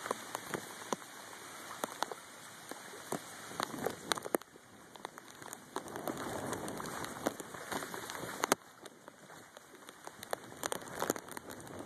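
Steady heavy rain falling on surfaces, with frequent sharp irregular ticks of drops landing close by, one louder hit about eight seconds in.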